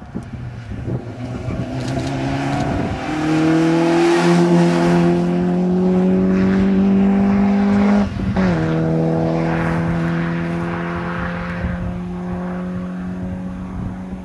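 Peugeot 205 rally car engine accelerating hard away from a chicane, its pitch climbing under full load. About eight seconds in the pitch drops sharply at a gear change, then the engine pulls on and fades as the car moves off.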